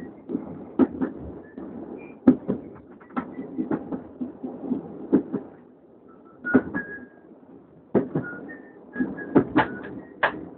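Heritage diesel multiple unit running along the line, heard from its front cab: a steady low rumble broken by irregular sharp clacks and knocks from the wheels on the track and the rattling cab, with a few short faint squeals.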